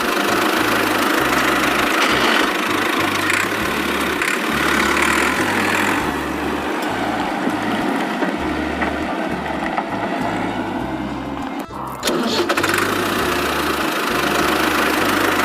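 Tractor engine running steadily, with a brief drop in level about twelve seconds in.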